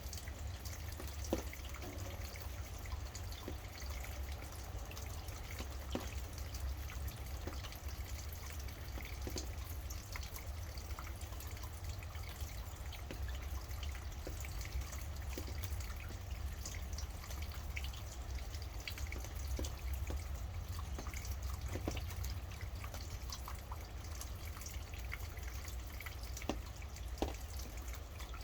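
Rain falling and dripping: scattered single drops tick irregularly over a steady low rumble.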